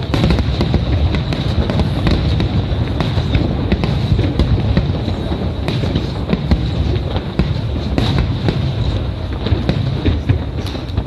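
Aerial fireworks bursting in a dense, continuous barrage: many overlapping booms with sharp cracks over a heavy low rumble, a faint steady high tone running underneath.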